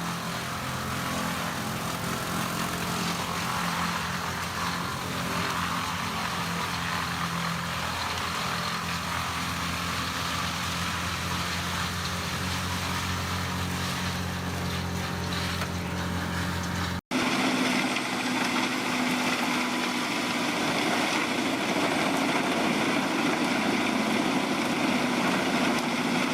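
2017 Morbark 18 brush chipper's engine running steadily with a low hum. About seventeen seconds in it cuts off abruptly to another wood chipper running, a noisier and denser machine sound.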